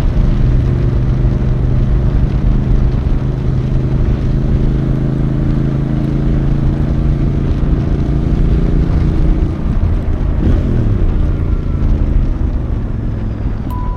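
Royal Enfield Bear 650's 648cc parallel-twin engine running steadily under way, heard from the rider's seat. About ten seconds in, its pitch briefly dips and climbs again before it settles at a steady note.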